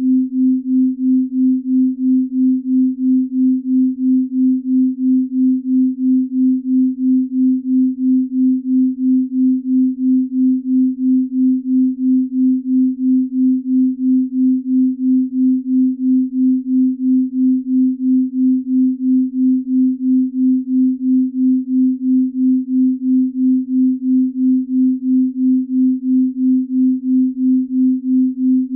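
Binaural-beat tone for deep sleep: a steady pure tone near 250 Hz that swells and fades evenly about two and a half times a second, the slow beat between two close-pitched tones.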